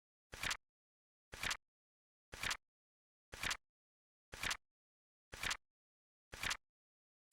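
Flip clock timer sound effect: a short flap-and-snap click once a second, each click a quick double snap, with silence between.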